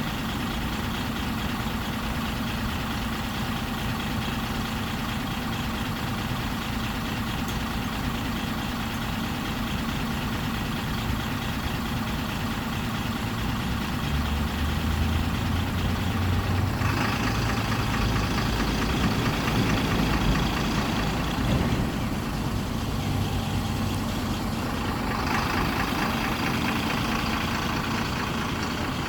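Mitsubishi Fuso Aerostar city bus's six-cylinder diesel engine idling steadily. About halfway through the engine note grows louder and deeper, and a higher rushing noise comes in twice.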